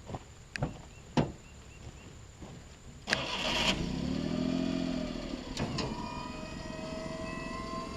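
A few sharp clicks, then the 1993 Suzuki mini truck's small three-cylinder engine cranks and starts about three seconds in, revs briefly and settles. From about six seconds a steady whine rises slowly over the running engine.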